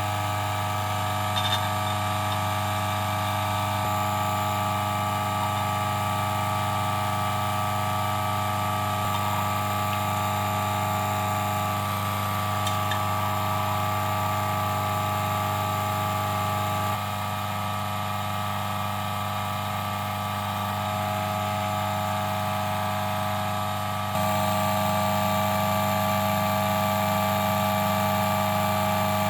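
DF54 coffee grinder's motor running steadily with a low hum. It dips slightly past halfway and comes back louder a few seconds later.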